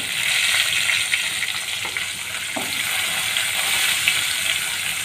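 Diced banana stem frying in hot oil in a steel kadai: the sizzle jumps up sharply the moment the pieces go in, then carries on as a steady hiss.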